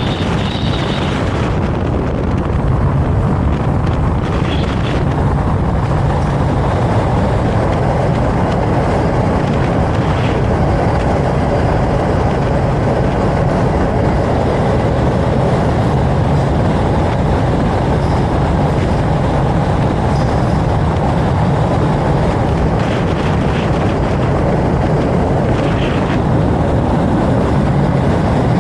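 Vario LF2R.E tram with its LFR.E trailer running along the track, a steady rumble of wheels on rails. A high thin whine sounds in the first second or so and then stops.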